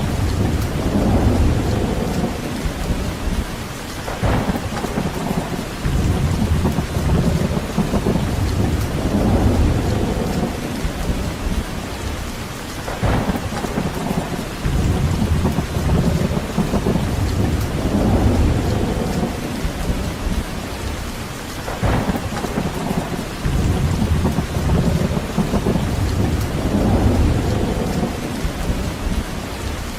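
Steady heavy rain, with deep rumbles that swell and fade every few seconds and a brief sharper crackle roughly every nine seconds.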